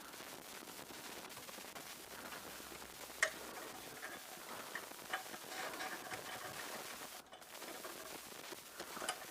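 Faint metallic ticks and scrapes of a magnet being worked inside a car's clutch bell housing, with one sharper click about three seconds in.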